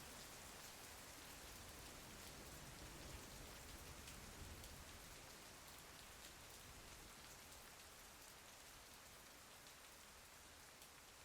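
Faint, steady rain with light taps of drops, slowly fading out.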